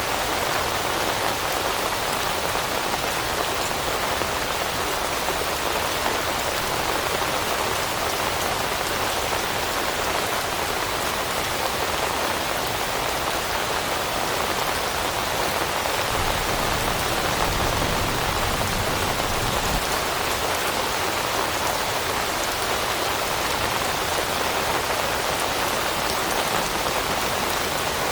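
Steady rain falling on leaves and foliage, an even continuous patter. A low rumble swells briefly about two-thirds of the way through.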